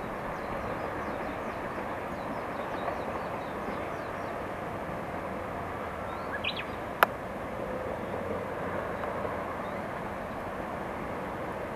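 Steady distant rumble of a passing train. Small birds chirp faintly over it in the first few seconds, and a single sharp click comes about seven seconds in.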